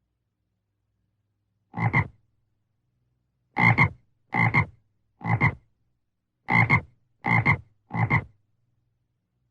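American bullfrog croaking: seven short, deep calls, one alone about two seconds in, then two runs of three in quick succession.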